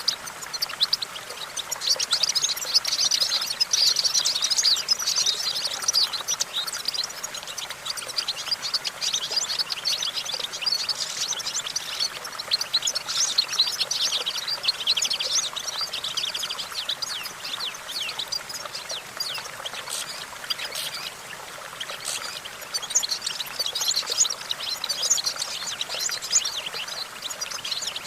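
European goldfinch singing a fast, continuous twittering song of rapid high notes. It eases off around the middle and picks up again near the end.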